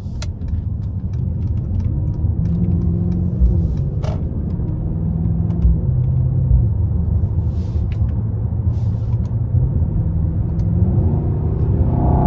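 Twin-turbo 4.0-litre V8 of a 2022 Mercedes-AMG GLE 63 S heard from inside the cabin under moderate throttle while pulling onto a highway: a low engine drone over road noise, growing gradually louder, its pitch stepping with gear changes.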